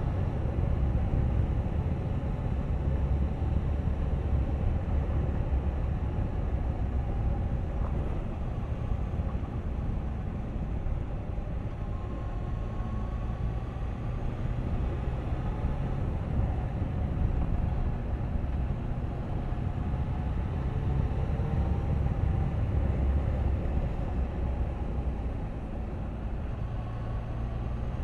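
Suzuki GSX1250FA motorcycle's inline-four engine running at road speed, under a steady low rumble of wind noise on the camera's microphone.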